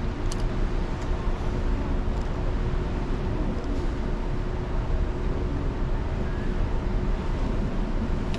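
Steady low rumbling noise of a cruise ship under way, with a faint constant hum over it.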